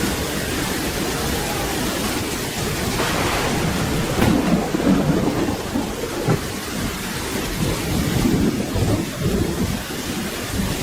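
Steady rain with rolling thunder: low rumbles swell about four seconds in and again near eight seconds.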